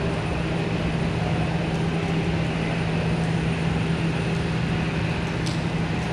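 Airbus A321neo jet engines running steadily, a constant noise with an even low hum through it.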